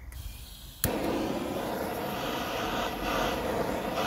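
A heat gun switched on with a click about a second in, then its fan blowing steadily as it heats plastic trim to soften it for bending.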